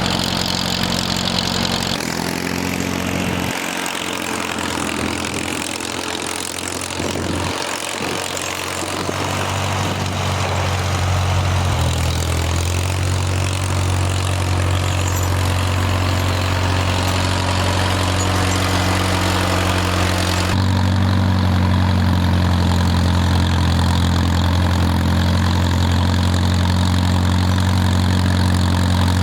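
Farmall tractor engine running steadily, speeding up about a third of the way in and changing pitch again about two-thirds through.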